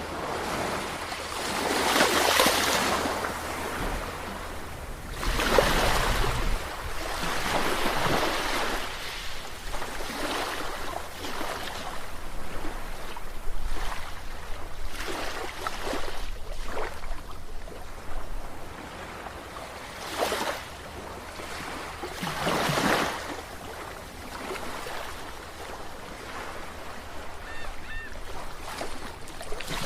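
Sea waves washing in and breaking, a series of rising and falling surges of surf noise. The strongest surges come near the start and again about two-thirds of the way through.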